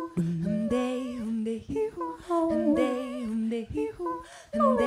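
Women's voices humming wordless harmony a cappella, several held notes sounding together, with one voice sliding down in pitch near the end.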